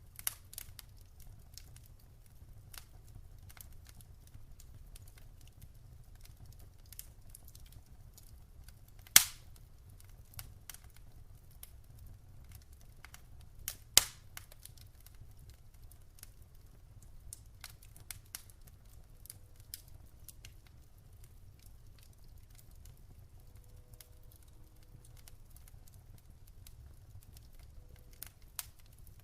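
Wood fire crackling in a fireplace: scattered small snaps and ticks, with two loud pops about 9 and 14 seconds in, over a steady low rumble.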